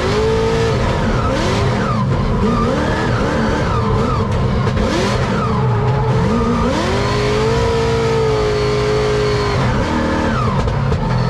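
Drift car engine at high revs, rising and dropping back again and again as the throttle is worked through a drift, with a held high note for a few seconds in the second half, over tyre noise and squeal.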